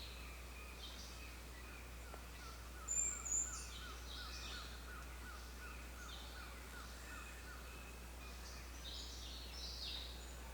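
Several wild birds calling at once: one repeats a short chirp about three times a second for several seconds, while others add scattered higher calls, the loudest a brief high whistle about three seconds in. A steady low hum runs underneath.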